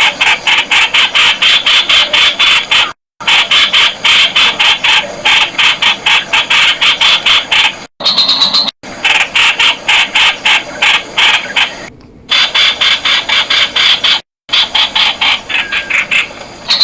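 Streak-eared bulbul calling: long runs of sharp, rapidly repeated notes, about seven a second, broken by a few brief silent gaps.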